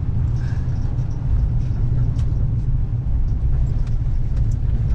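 Inside the cab of a 2014 Ford F550 utility truck driving over a rough road: a steady low rumble from its 6.7 L Power Stroke V8 turbo diesel and the tyres, with a few faint knocks.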